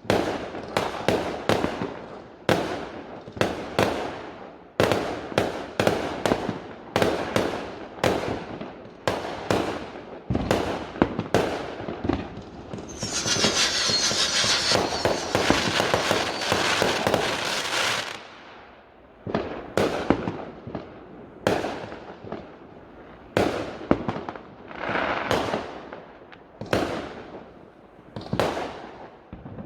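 Fireworks going off in quick succession, sharp bangs each with a short echoing tail, with a denser stretch of continuous crackling and hiss lasting about five seconds around the middle. The bangs come more sparsely afterwards.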